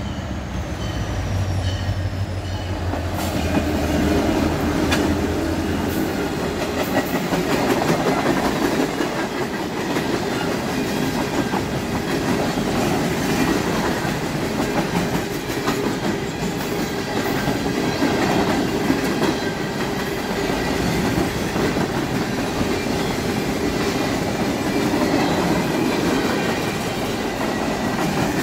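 CSX freight work train passing at speed: its diesel locomotives go by in the first few seconds with a low engine hum, then a long string of gondolas and flatcars rolls past with a steady rumble and clickety-clack of wheels over rail joints.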